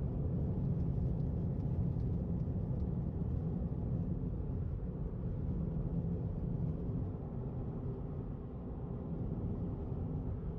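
Steady low rumble with a faint hum and no breaks or sudden sounds.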